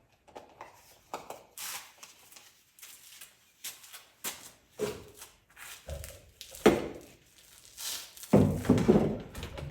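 Handling noise: a scatter of light clicks, knocks and rustles as parts are moved and set down, with a sharp knock about two-thirds of the way in and a louder stretch of knocking and rustling near the end.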